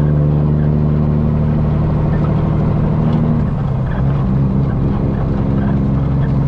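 Peterbilt semi truck's diesel engine running steadily under way; about three and a half seconds in the engine note dips briefly and settles at a different steady pitch.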